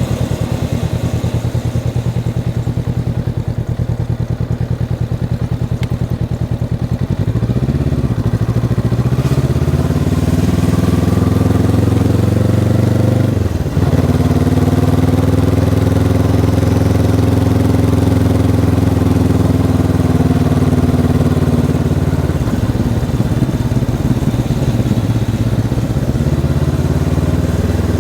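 Honda CB500X's parallel-twin engine with its stock exhaust, heard while riding. It runs at low revs, picks up about a quarter of the way in, breaks off briefly for a gear change near the middle, holds higher revs, then eases back down about three quarters of the way through.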